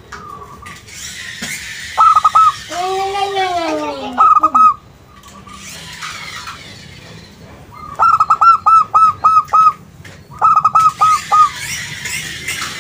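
Zebra dove (perkutut) cooing: bursts of rapid staccato notes, about two seconds in, just after four seconds, and again at about eight and ten seconds, with a lower drawn-out curving coo in between around three seconds in.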